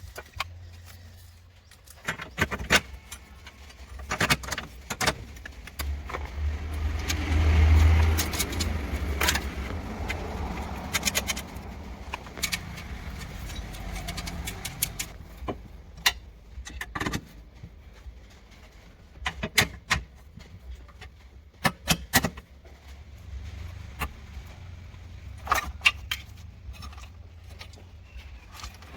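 Metal tools and parts clinking and knocking in irregular sharp clicks during work on a car, over a steady low hum, with a longer scraping, rustling stretch partway through.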